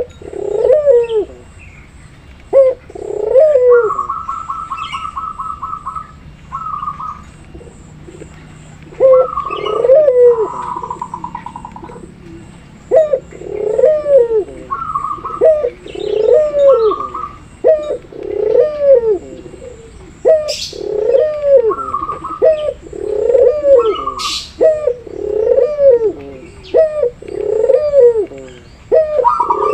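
Puter doves cooing over and over: low arched coos, coming about once a second in the second half, with stretches of a higher, rapidly pulsing trill between them. A few brief high chirps from a small bird come in near the middle.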